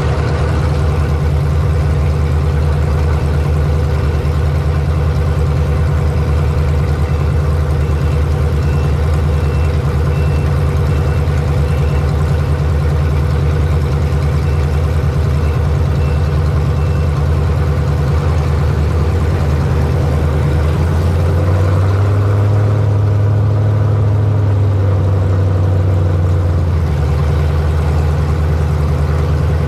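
A racing vehicle's engine running steadily, heard close up from an onboard camera. Its tone shifts and it gets slightly louder for several seconds about two-thirds of the way through, then settles back.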